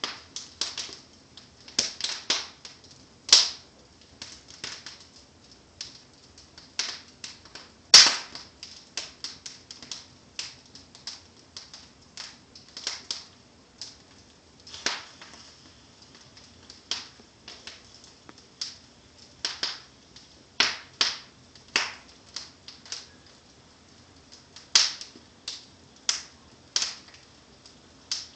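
Wood fire in a fireplace crackling, with irregular sharp pops from the burning logs and embers. The loudest pop comes about eight seconds in, another strong one about three seconds in.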